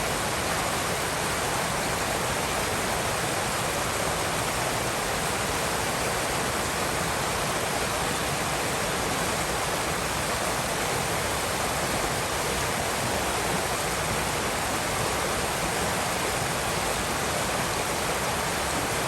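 River water rushing steadily over rocks, a constant even rush of flowing water.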